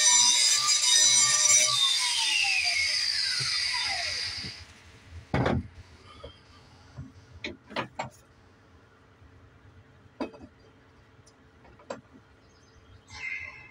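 Grinder sharpening a steel mower blade, a harsh grinding whine, then switched off about two seconds in, its whine falling in pitch as the wheel spins down over a couple of seconds. A few short knocks and clanks follow.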